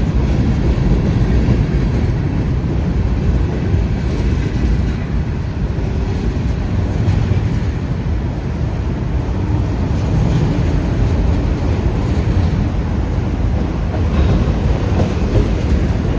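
A freight train's cars rolling past: a loud, steady rumble of wheels on the rails, with a few faint clicks.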